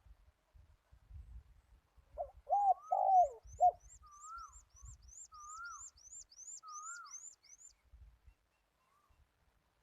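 A dove cooing: a quick run of short, arched coo notes, followed by softer wavering notes. Over it, another small bird gives a fast series of thin, high, descending chirps, about three a second, for some five seconds.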